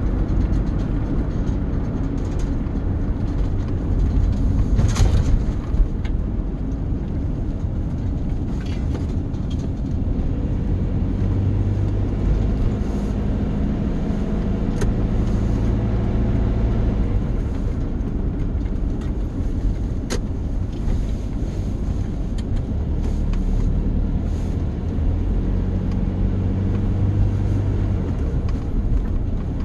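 A motor vehicle running with a steady low rumble, its engine note shifting up and down now and then, with a few light clicks.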